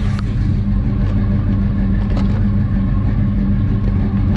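Small-block Chevrolet V8 idling steadily.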